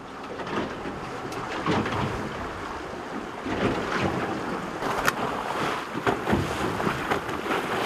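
Sea water sloshing and slapping against a boat's hull, with gusts of wind buffeting the microphone.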